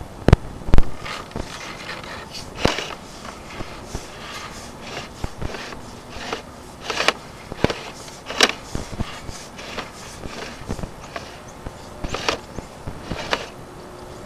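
Irregular knocks, clicks and scrapes of a sewer inspection camera and its push cable being fed down a 3-inch roof vent stack, with a sharp knock every half second to second or so.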